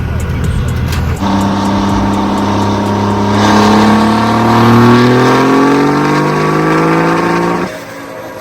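Diesel truck engine at full throttle, its pitch climbing steadily and without a gear change for about six seconds, then cutting off abruptly near the end.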